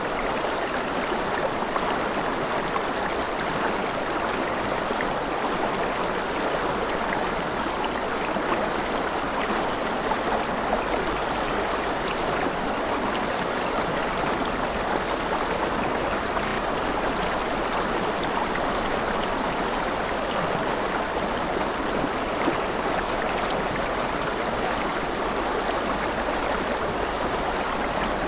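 River water flowing and splashing steadily, a continuous even rush with fine splashy crackle.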